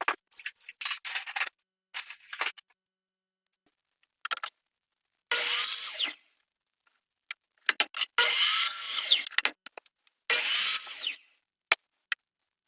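A power tool running in three short bursts of about a second each, with short knocks and clicks between them, during quarter-round trim work.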